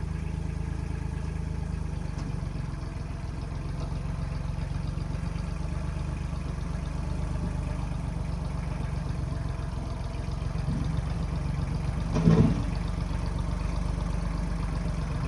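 1995 Kubota backhoe's diesel engine running steadily, with one brief louder knock near the end.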